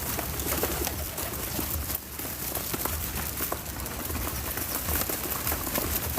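Birds at a backyard feeder, with a dense patter of small clicks and taps over a low rumble.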